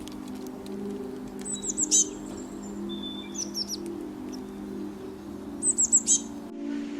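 Songbird chirping: two quick runs of about four high, down-slurred notes ending in a louder one, about four seconds apart, with a few fainter chirps between them. A soft, steady ambient music drone runs under the birdsong.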